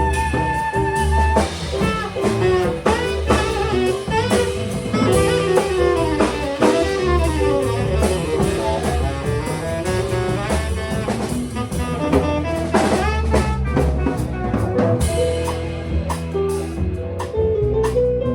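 Jazz band playing an instrumental passage: drum kit and bass under a lead line of quick runs of notes.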